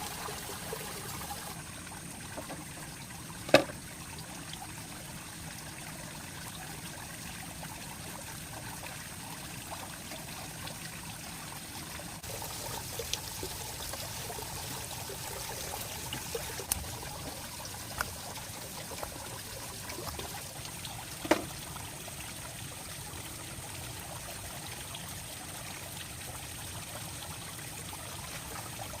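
Shallow running water trickling steadily, with two sharp taps standing out, one a few seconds in and one past the middle.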